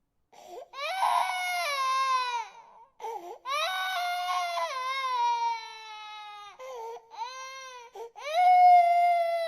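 Infant crying in a run of long wails, each falling in pitch, with short catches of breath between them. The loudest wail comes near the end.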